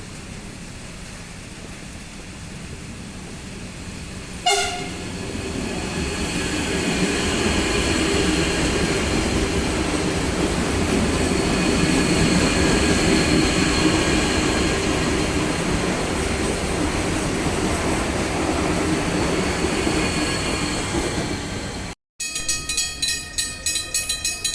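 Electric commuter train of CPTM Line 7-Ruby gives a short horn blast, then runs through the station with a steady motor whine and wheel-on-rail rumble that builds and then eases off. After an abrupt cut near the end, a different, rapidly pulsing sound follows.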